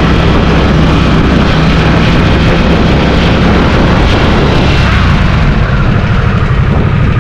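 Motorcycle engine running loud and steady, easing off a little near the end.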